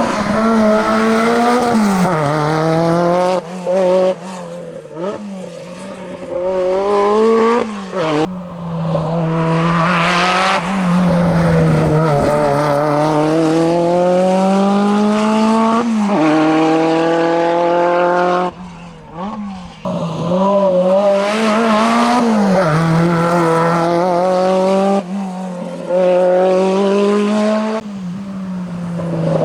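Renault 5 Turbo's turbocharged four-cylinder engine driven flat out, its pitch rising through each gear and dropping back at every shift, with a deeper lift about two thirds of the way through before it pulls hard again.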